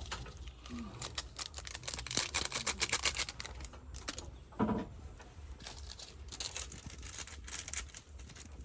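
A quick run of sharp clicks and light clattering, densest about two seconds in, with a short louder knock near the middle and scattered clicks after it.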